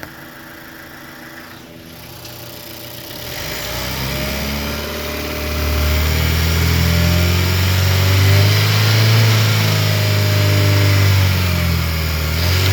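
2018 Chevrolet Malibu engine running quietly at idle, then revved from about three seconds in: the pitch climbs in two steps and holds high for several seconds, dips briefly near the end and climbs again.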